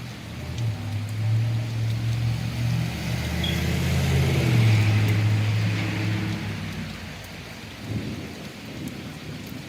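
Steady rain falling, with a low rumble that builds over the first few seconds, peaks about halfway through and then dies away.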